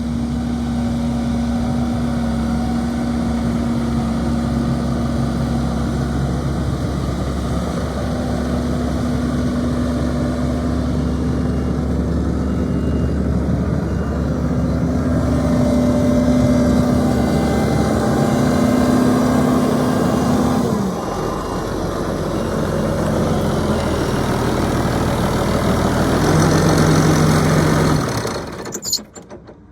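2007 New Holland TV145 bi-directional tractor's diesel engine running steadily. The engine note drops about two-thirds of the way through as the revs come down, then changes again and the sound cuts off suddenly near the end.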